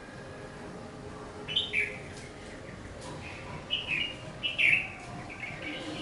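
Bird chirping in short bursts: a couple of quick notes about a second and a half in, then a run of chirps between about three and a half and five seconds in, over a faint steady outdoor background.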